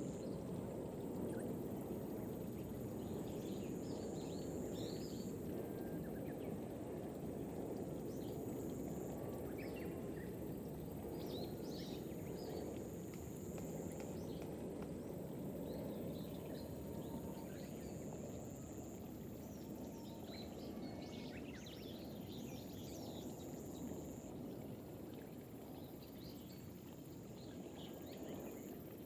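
Gentle rain over terraced rice paddies, a steady low wash of water, with scattered short bird chirps. A thin high insect trill comes and goes in stretches of a few seconds.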